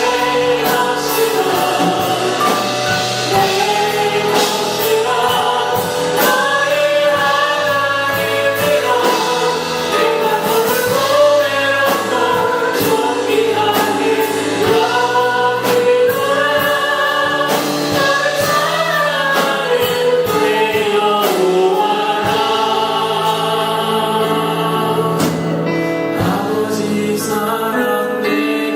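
A congregation or choir singing a worship hymn with instrumental accompaniment and a steady beat.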